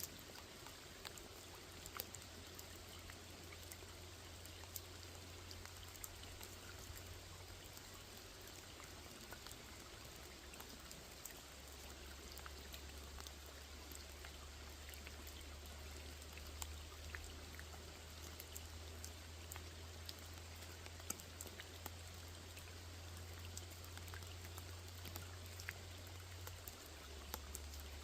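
Steady rain falling on a small lake, with a constant hiss and many separate drop ticks. Under it runs a low steady hum that drops in pitch about eleven seconds in.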